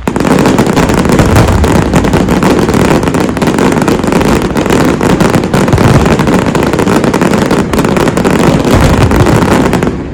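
Dense fireworks barrage: a loud, continuous crackle of many rapid bursts merging into one rushing noise, which drops away near the end.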